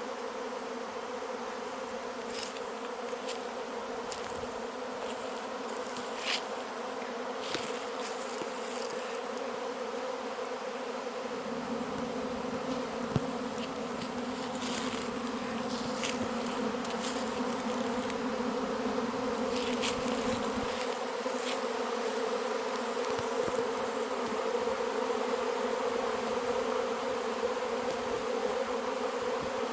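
Dense, steady buzzing of a large honey bee swarm in the air, settling onto a hive box. A continuous hum that grows slightly louder in the second half, with a few faint ticks of bees striking the microphone.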